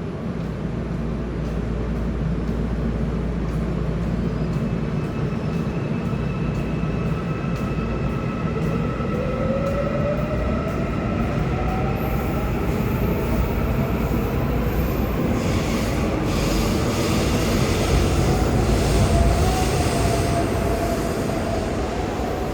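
Seoul Subway Line 1 electric train pulling out of the station. Its motor whine climbs slowly in pitch as it gathers speed, under a steady rumble of wheels on rail that grows loudest near the end.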